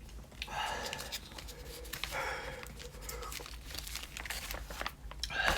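A person panting heavily through the mouth in several breathy huffs, from the burn of ghost pepper jerky, with light crinkling of foil packaging between the breaths.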